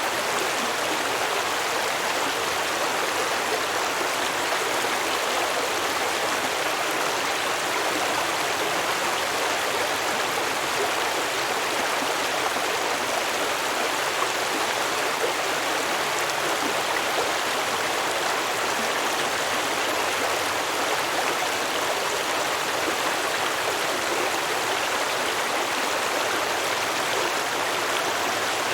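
Stream water flowing and babbling over rocks, a steady even rush without breaks.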